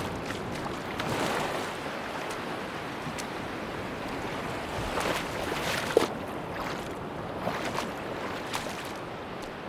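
Sea surf washing on a beach in slow swells, with a few short sharp clicks, the sharpest about six seconds in.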